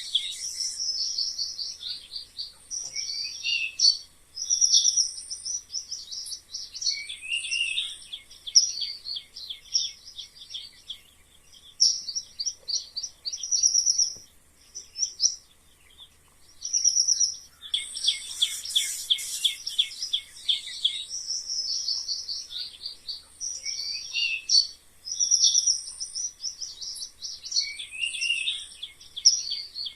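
Mice squeaking: rapid runs of high-pitched squeaks and chirps in bursts, with short pauses between them.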